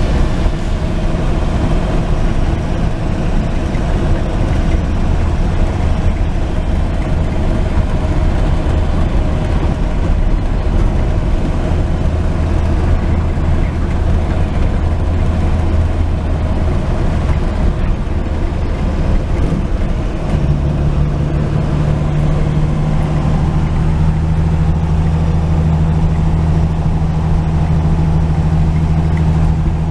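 1949 Chevrolet truck's inline-six engine running steadily under way, with road noise. About two-thirds of the way in, a second steady hum joins at a higher pitch.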